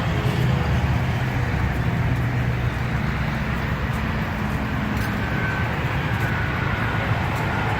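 Steady low motor rumble with a constant hiss over it.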